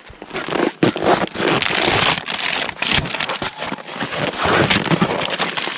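Close, loud crackling and crinkling rustle with many irregular sharp clicks, like snow, clothing or a bag being handled right at the microphone.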